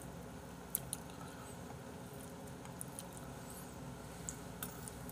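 A person chewing a mouthful of food quietly, with a few faint clicks and one sharper click about three quarters of a second in, over a low steady hiss.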